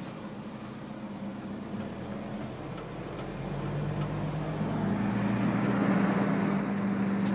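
In-cab sound of a 1988 GMC S-15 pickup's 2.5-litre fuel-injected four-cylinder engine pulling the truck along. The engine note rises and gets louder about halfway through as the truck accelerates.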